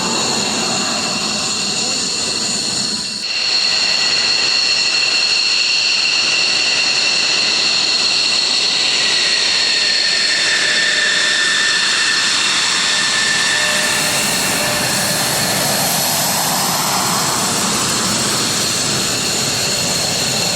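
Military jet engines running at ground idle as aircraft taxi: a steady high-pitched whine of several whistling tones over a hissing rush. The sound dips briefly about three seconds in, and one tone slides slowly lower near the middle as an aircraft moves past.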